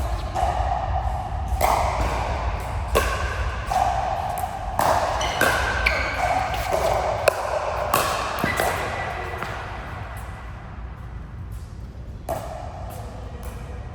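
Play in an indoor court: a series of sharp, irregularly spaced hits and thuds, mixed with short squeaky tones. It quietens for the last few seconds, with one more hit near the end.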